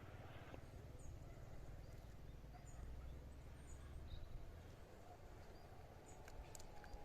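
Faint outdoor ambience with a low rumble and a few brief, high bird chirps scattered through it, plus a couple of small clicks near the end.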